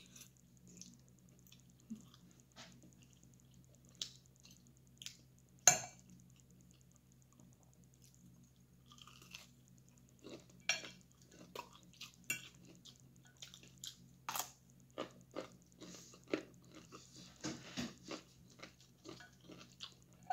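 A person chewing and crunching crisp bacon and fried potatoes, the bites sparse at first and coming thick and fast in the second half, with one sharp click about six seconds in. A faint steady low hum runs underneath.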